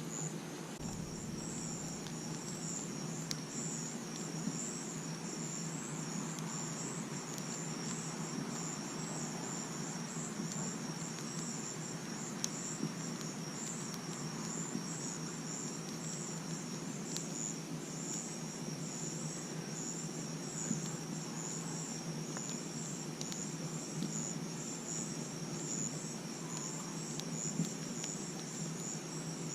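Crickets chirping in a steady, high, pulsing trill over the soft hiss and crackle of a campfire, with a few sharp pops from the fire.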